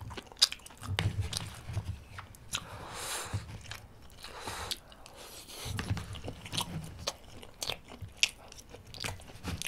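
Close-miked chewing and mouth sounds, with sharp clicks and scrapes of wooden chopsticks picking the last food from a black plastic lunchbox tray.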